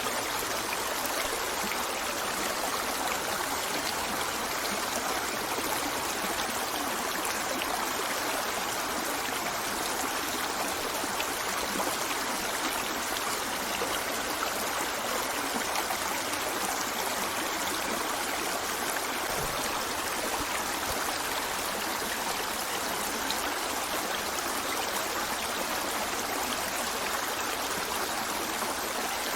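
A river flowing steadily over stones, a continuous rushing and babbling of water without pauses.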